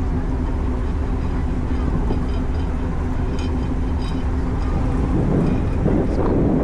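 Steady low drone of a ferry's engines heard from the open deck, with wind rushing over the microphone that grows louder about five seconds in.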